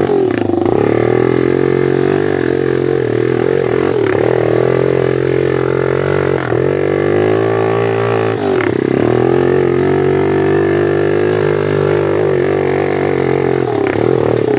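Small single-cylinder pit bike engine running under way, a steady drone whose pitch drops briefly and comes back up several times as the throttle is eased and reopened.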